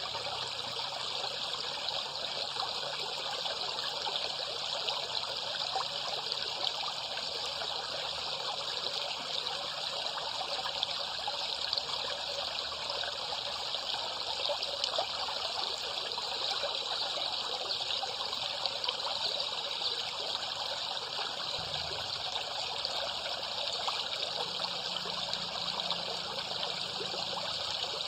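Steady trickling, burbling water.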